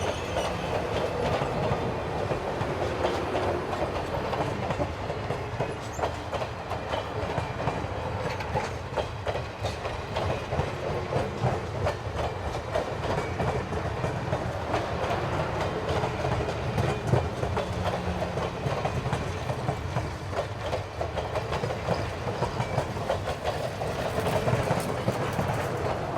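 Passenger train passing at speed, its steel wheels rumbling and clicking over the rail joints in a steady stream.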